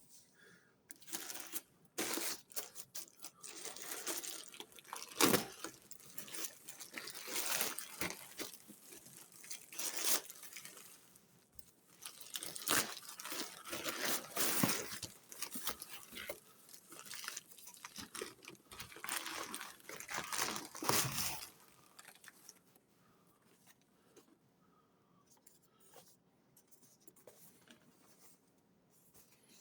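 Packaging being torn open and crinkled by hand, in irregular rustling bursts with sharp crackles, stopping about 21 seconds in; a few faint handling sounds follow.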